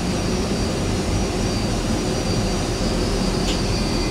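Steady jet engine and cabin noise inside a Boeing 757 taxiing after landing, with its Rolls-Royce RB211 engines at idle; a low rumble with a faint high whine.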